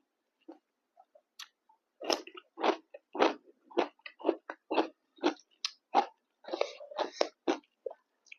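A person chewing a mouthful of food with the mouth open, making wet mouth sounds about twice a second. Only a few faint clicks come before this, and the regular chewing starts about two seconds in.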